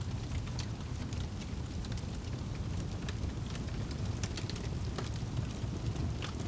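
Wood fire crackling in a fireplace: scattered sharp pops and snaps at irregular intervals over a steady low rumble of the burning fire.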